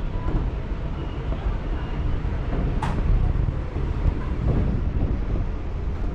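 MEMU electric train running, heard from inside the coach: a steady low rumble with wind buffeting the microphone, and a sharp click about three seconds in.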